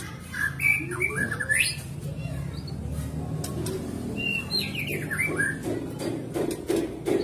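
White-rumped shama (murai batu) singing: a phrase of quick whistled notes rising and falling near the start, and another about four and a half seconds in, over a low steady background hum.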